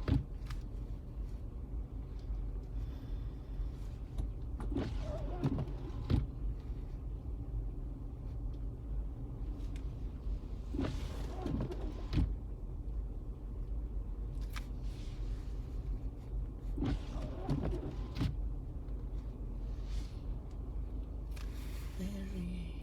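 Steady low road rumble of a car heard from inside the cabin while driving on snowy roads, with a few short knocks and clicks now and then.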